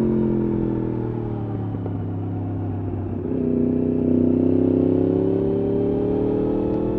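Yamaha R1 RN22's crossplane inline-four running through an Akrapovič exhaust: the revs fall off over the first few seconds as the bike slows, then about three seconds in the rider gets back on the throttle and the engine note grows louder and climbs steadily in pitch.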